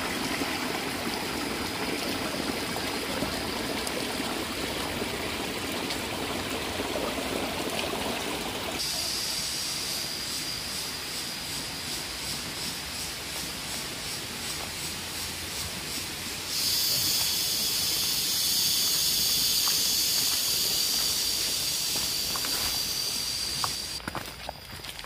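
Flowing stream water for roughly the first third. Then it switches suddenly to a steady high-pitched hiss, which grows louder about two-thirds of the way in and fades out shortly before the end.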